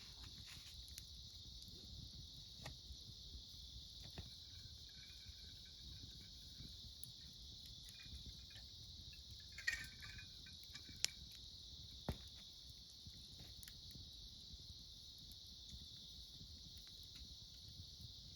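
Steady high chirring chorus of autumn insects such as crickets, with a wood fire giving a few sharp crackling pops, the loudest three between about ten and twelve seconds in.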